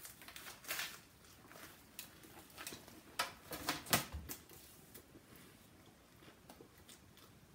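Close-up chewing of a crunchy Flaming Hot Cheetos soft-shell crab sandwich: a scatter of crisp crunches and mouth clicks over the first four seconds or so, then only faint ticks.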